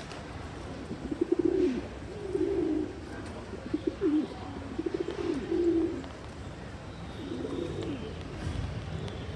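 Pigeons cooing: a series of low, rolling coos, about six phrases of roughly half a second to a second each, with short gaps between.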